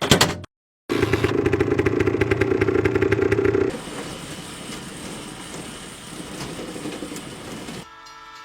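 A motor vehicle engine running, loud for the first few seconds and then dropping away to a quieter rumble, after two short loud sounds at the very start. Near the end a steady horn-like tone with several pitches begins.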